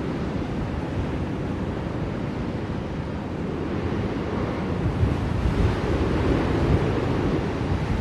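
Blizzard wind blowing steadily, a deep rushing noise that swells into stronger gusts about halfway through.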